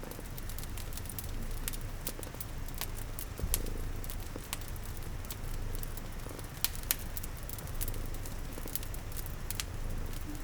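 Crackling fireplace with irregular sharp pops, a few louder ones about three and a half and seven seconds in, over a steady hiss of rain and a low, even cat purr underneath.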